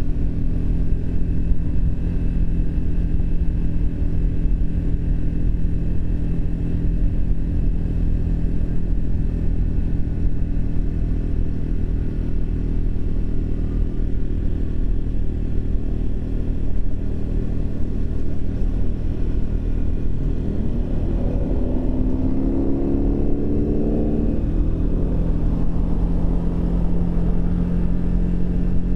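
Triumph Speed 400's single-cylinder engine running on the move under a heavy low rumble. About two-thirds of the way through it rises in pitch for a few seconds as it accelerates, then holds a steady, slightly higher note.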